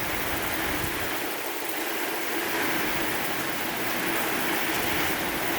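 Steady hiss of heavy thunderstorm rain and strong gusting wind, with no thunder.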